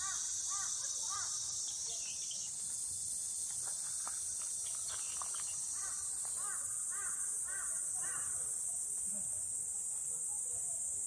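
A steady, shrill chorus of insects trilling, shifting in pitch a couple of times. Over it a bird calls in quick series of short arched notes, near the start and again in the middle.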